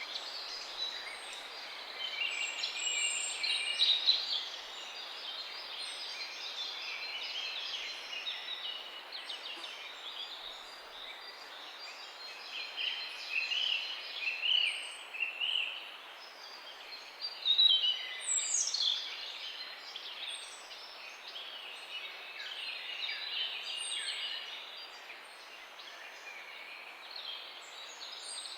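A chorus of small songbirds chirping and trilling, with many overlapping calls and a few louder bursts, one sweeping steeply down in pitch about two-thirds through, over a steady background hiss.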